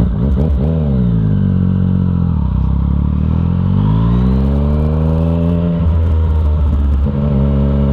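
Yamaha FZ-09's inline three-cylinder engine running through an Arrow exhaust with the dB killer removed, as the bike pulls away and accelerates: the engine note rises and falls once early on, climbs steadily in pitch for a couple of seconds midway, drops, and then holds a steady note near the end. The exhaust note is deep but not overly loud.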